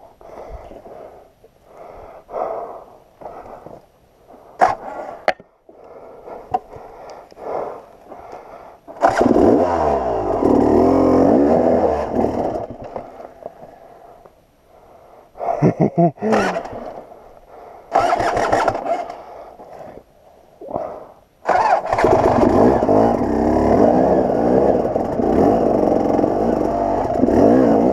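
KTM 300 XC-W two-stroke dirt bike engine, uneven and quieter at first. It is revved hard from about nine seconds in, then in short bursts, and held at high revs again for the last six seconds or so, as the bike labours on a steep rocky climb it does not get up.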